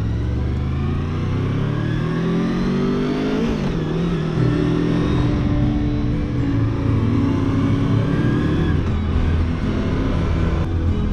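1993 Honda VFR750 RC36's V4 engine under acceleration: the revs climb for about three and a half seconds, drop sharply at an upshift, then run fairly steadily before dropping again at another shift near the end.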